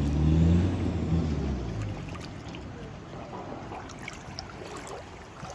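A boat's engine running with a steady low hum that fades away about two seconds in, leaving a quieter steady hiss.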